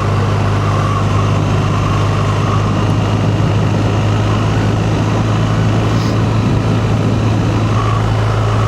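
Motorcycle engine running at a steady, even low note under way, with a constant rush of road noise.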